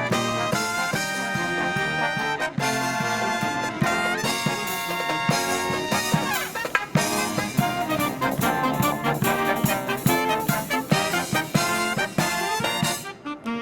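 Live marching brass band playing a Christmas parade medley: trumpets and trombones over drum beats, with a brief drop in loudness near the end.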